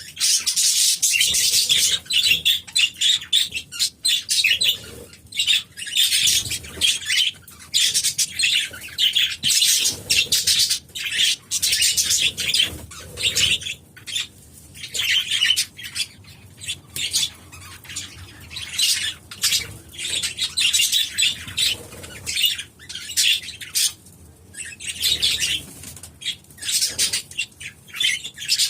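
A flock of pet budgerigars and cockatiels chattering and chirping in an aviary, with many rapid high calls overlapping and wings flapping.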